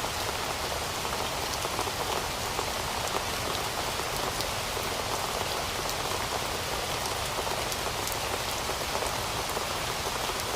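Heavy rain falling steadily, a dense hiss with the patter of many drops striking surfaces.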